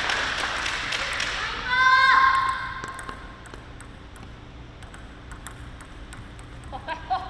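Spectator applause in the arena dies away, then a short, high held tone about two seconds in that drops in pitch as it ends. Faint scattered taps follow, with a brief voice-like sound near the end.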